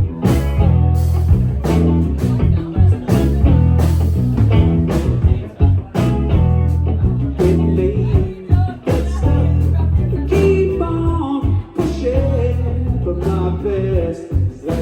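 Live rock band playing a song with electric guitar, bass and drums keeping a steady beat, heard loud through the room's PA.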